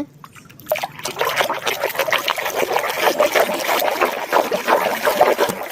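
Water splashing and trickling unevenly as a muddy toy animal is washed clean.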